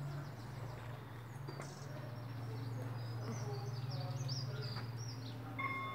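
Small birds chirping and twittering in quick short notes over a steady low hum. Near the end, a station PA chime starts with several clear held tones.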